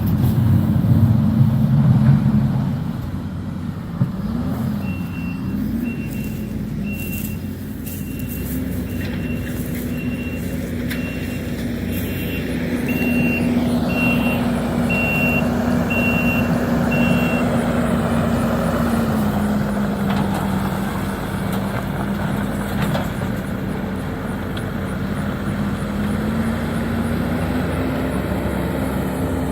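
Heavy diesel engine of a demolition excavator running, its pitch rising and dropping as the machine works. A backup alarm beeps about once a second from about five seconds in until about halfway through.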